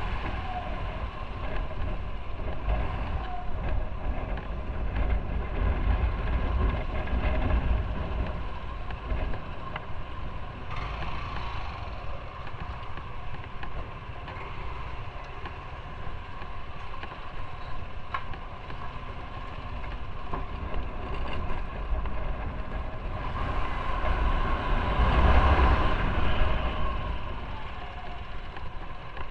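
Motorcycle on the move: steady engine and road noise with a heavy deep rumble, swelling louder for a few seconds near the end.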